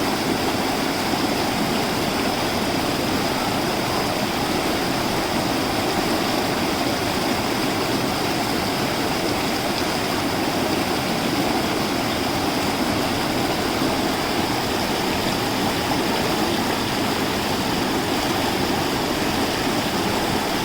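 Steady rushing water, an even unbroken wash, with a faint steady high tone running above it.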